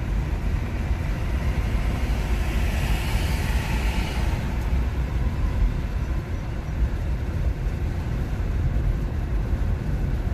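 Steady road and tyre noise from an electric car, a 2021 Nissan Leaf, driving along with no engine sound. A hiss swells and fades about three to four seconds in.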